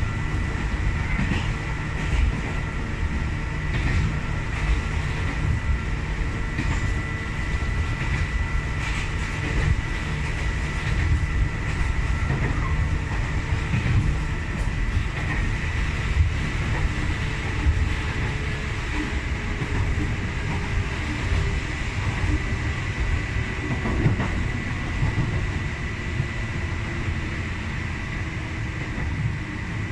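Electric commuter train running along the track, heard from the driver's cab: a steady low rumble with a steady high whine, and irregular knocks and clacks as the wheels run over rail joints on a stretch where the car sways heavily.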